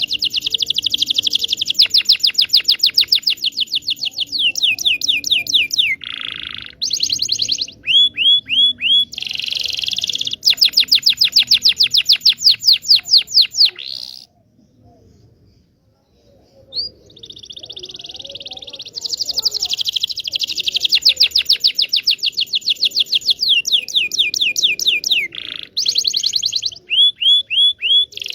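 Canary singing long, rapid trills and rolling phrases, high-pitched and fast-repeating, in two song bouts separated by a pause of a couple of seconds about halfway through.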